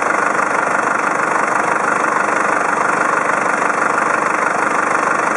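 Isuzu Elf's 4,570 cc four-cylinder diesel engine idling steadily.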